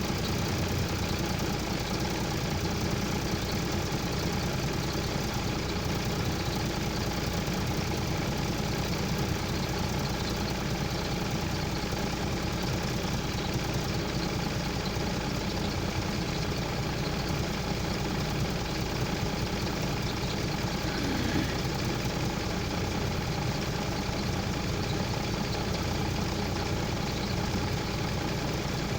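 Truck engine running steadily at an even, unchanging pitch.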